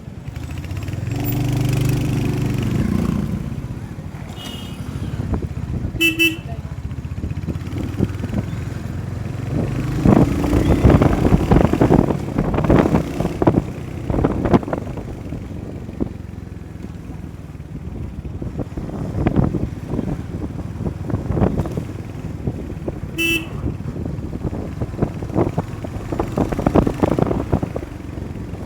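Road noise heard from a moving motorcycle: engine rumble and gusty wind buffeting on the microphone. Two short horn beeps sound about six seconds in and again near the end, and a deeper horn-like tone is held for a couple of seconds near the start.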